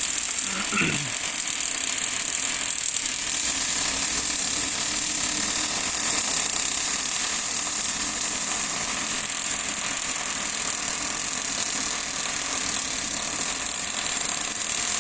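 Steady machine noise with a high hiss, and a brief sliding tone about a second in.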